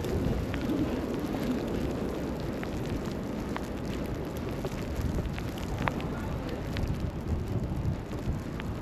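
City street ambience in a snowstorm: a steady low rumble of traffic and wind, with scattered faint ticks of snow or sleet striking.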